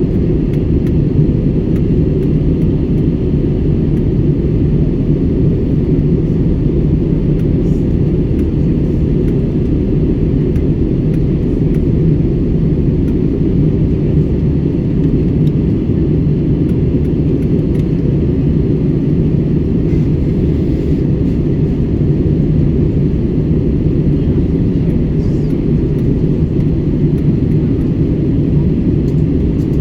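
Steady low drone of an airliner's cabin in flight, the engines and rushing air holding an even, unchanging level.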